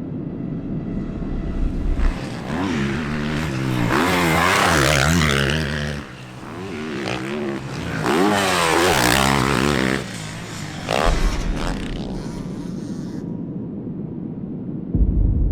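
Motocross bikes' engines revving up and down as they race past. There are two loud passes, about two to six seconds in and again about eight to ten seconds in, each with the pitch climbing and dropping through the gears, and quieter engine noise from bikes farther off in between and after.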